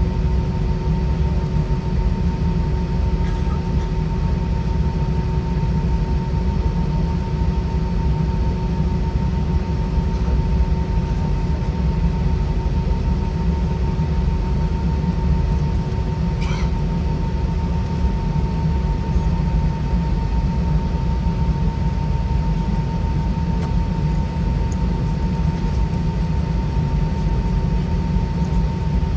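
Cabin noise inside an Airbus A320 with IAE V2500 engines running: a steady low rumble with a constant whine from the engines, unchanging in level. A brief faint chirp sounds about halfway through.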